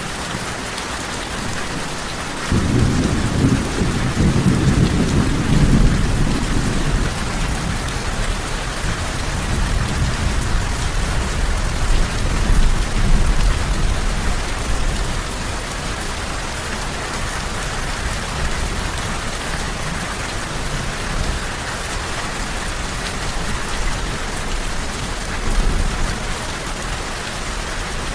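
Steady rain with a roll of thunder that breaks in a few seconds in and rumbles low for about ten seconds as it fades, then a softer rumble near the end.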